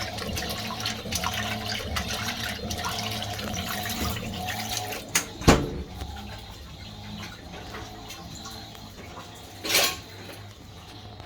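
Water running and splashing inside a Fisher & Paykel washing machine's tub during the wash cycle. A sharp knock comes about five and a half seconds in, after which the water sound is quieter, and a short louder burst follows near the end.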